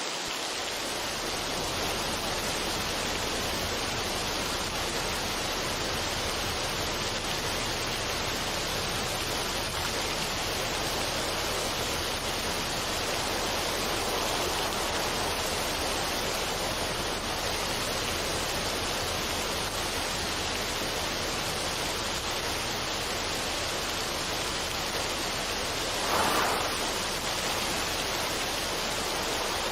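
Steady, even rushing noise of the falling-water or rain kind, with one short louder swell near the end.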